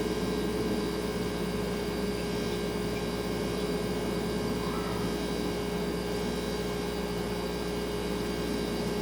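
Refrigerator running: a steady hum with a constant tone over a faint, even hiss.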